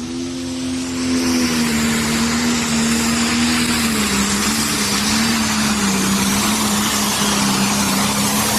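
Pro Stock pulling tractor's single-turbo 680-cubic-inch diesel running flat out at high revs, dragging the weight sled down the track. The note holds steady with slight dips in pitch, under a loud turbo and exhaust hiss, and grows louder over the first second.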